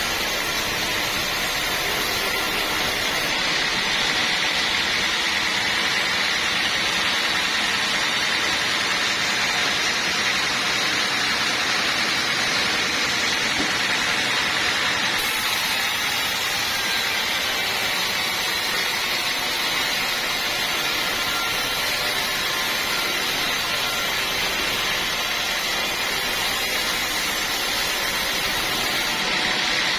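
Sawmill saw running steadily through a teak log, a continuous noisy whine.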